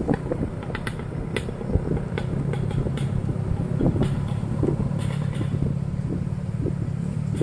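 Motorcycle engine running steadily while riding, with scattered clicks and knocks over it.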